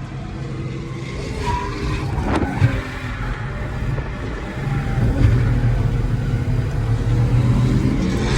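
A car engine running and revving, louder through the second half.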